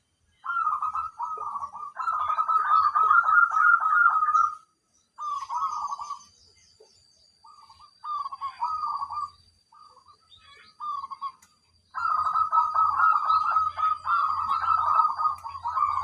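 Zebra dove (perkutut) cooing in phrases of rapid, rolling coos with short pauses between them. The longest unbroken stretch of song comes in the last four seconds.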